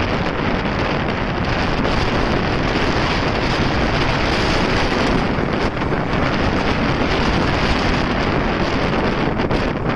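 Steady wind noise buffeting the microphone of a moving motorcycle, over road and engine noise.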